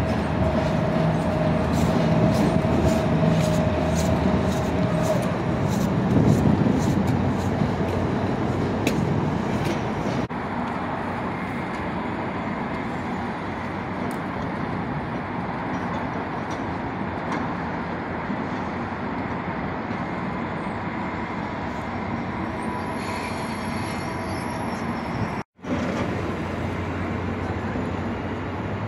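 Railway passenger coaches rolling through the yard. In the first few seconds there is a steady high squeal, with a run of wheel clicks over rail joints until about ten seconds in. After a cut comes a steadier train rumble, broken by a brief dropout near the end.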